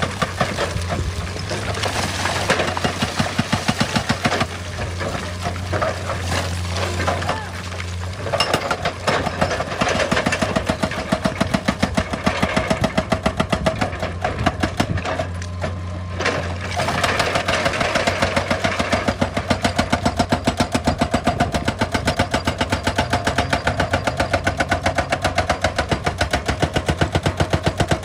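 Excavator engine running steadily under rapid, evenly repeated impacts of a hydraulic rock breaker hammering stone. The hammering stops for a moment about halfway through, then resumes.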